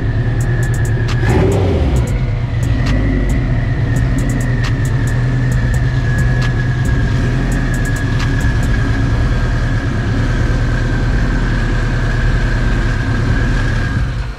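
Built, big-turbo Dodge Neon SRT-4's 2.4-litre turbocharged four-cylinder running at a loud idle, with a brief blip of the throttle about a second in and a steady high whine over the engine note. It shuts off right at the end.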